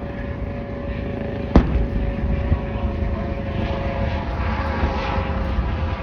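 Fireworks display: one sharp bang about a second and a half in, over a steady low rumble.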